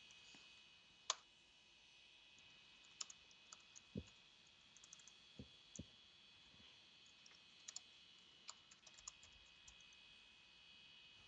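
Near silence: a faint steady hiss with scattered small clicks and taps, the sharpest about a second in.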